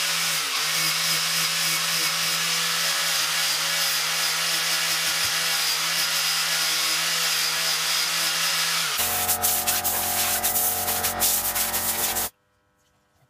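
An electric power tool sanding wood: a steady motor hum under a rasping hiss. About nine seconds in the sound changes to a lower hum with scraping ticks, then it cuts off suddenly near the end.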